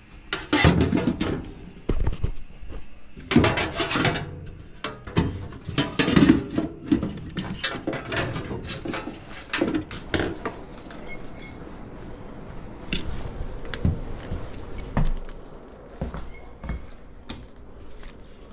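Irregular metal clinks, knocks and rattles of tools and parts being handled, busiest in the first half and thinning to scattered ticks later.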